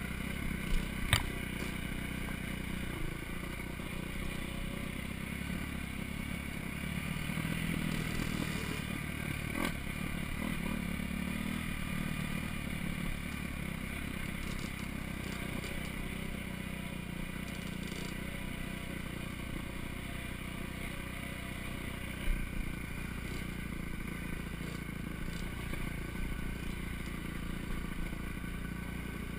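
Four-stroke dirt bike engine running steadily under way, with clattering and scraping and a few sharp knocks from the bike over rough ground.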